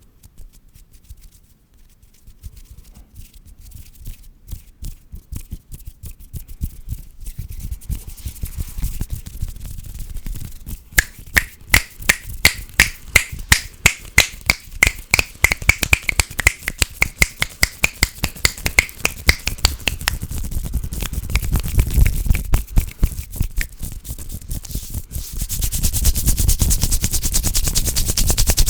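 Hands rubbing, tapping and brushing together right at a sensitive microphone: rapid repeated strokes, faint at first and building in speed and loudness, turning into a fast, continuous rubbing near the end.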